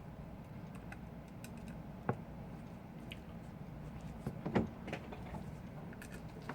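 Light clicks and taps of small repair tools and tiny parts against an iPhone 5's housing: one sharp click about two seconds in and a quick cluster of clicks around four and a half seconds, over a steady low hum.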